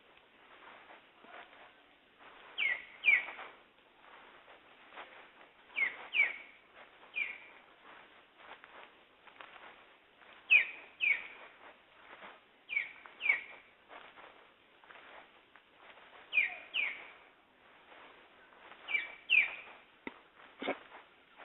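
A songbird calling in a forest, repeating a pair of short down-slurred whistled notes every two to three seconds, with faint background birds. There is a single short low thump near the end.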